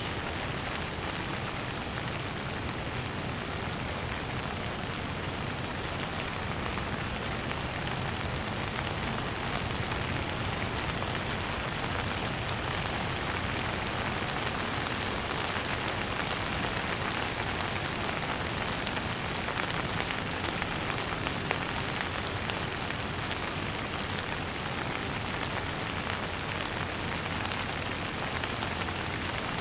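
Steady gentle rain falling, an even hiss with scattered faint drop ticks.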